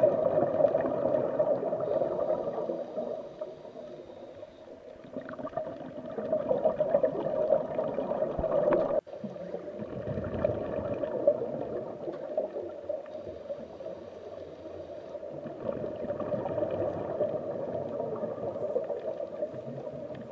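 Underwater sound of a scuba diver's breathing: regulator breaths and exhaled bubbles gurgling, rising and falling over several seconds, with a brief dropout about nine seconds in.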